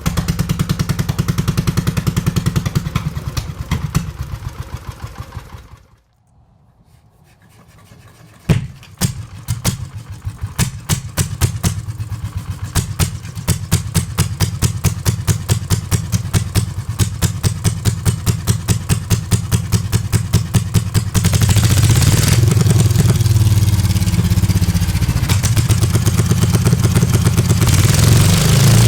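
Restored Condor Guidetti A320 engine running on its first start-up after restoration. It slows and dies out about six seconds in, then fires up again a couple of seconds later, picks up speed and settles into a steady run. From about two-thirds of the way through it runs louder and faster.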